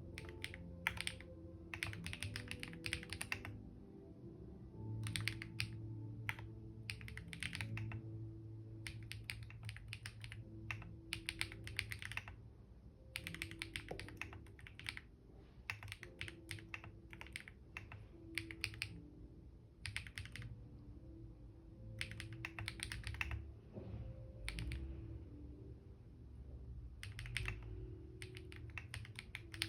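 Computer keyboard typing in bursts of quick keystrokes broken by short pauses, over faint background music.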